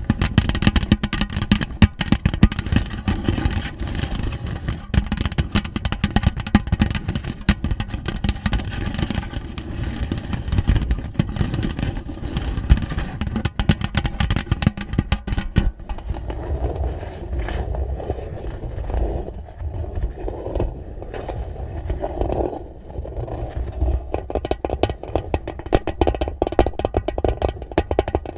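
Dense, rapid pattering on a tin box, a rain-like sound of many small hits on metal. About sixteen seconds in it turns duller and lower, losing its bright edge.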